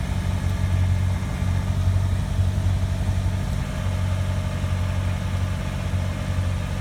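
Tractor engine running steadily with an even, low note.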